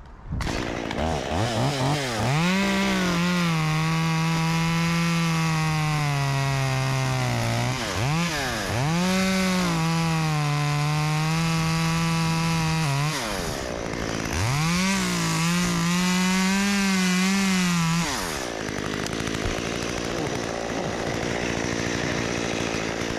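Chainsaw revving and cutting into a tree trunk, its engine note sagging under load, in three cuts with brief let-offs of the throttle between them, then running more quietly for the last few seconds. The cut went through the hinge of the scarf, so the section slid off before it fell.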